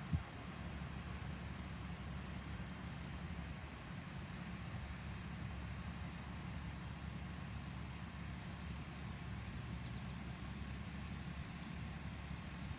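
Large truck's diesel engine idling steadily with a low, even hum.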